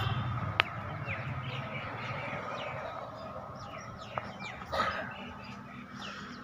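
Small birds chirping repeatedly in short, quick falling notes over a low steady background hum, with a single sharp click about half a second in.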